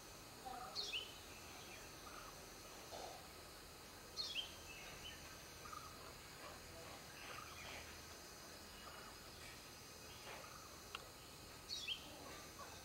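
Birds calling: a short downward-sliding call comes three times, about a second in, about four seconds in and near the end, with scattered fainter chirps in between. A faint steady high-pitched whine runs underneath.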